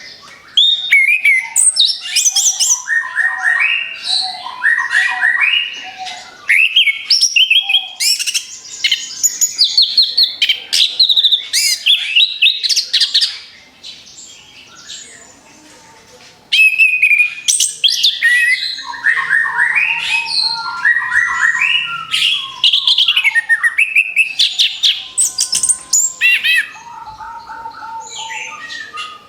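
Orange-headed thrush (anis kembang) singing a loud, fast, varied song of quick chirped phrases delivered in rapid-fire runs. It breaks off for a couple of seconds about halfway through, then resumes.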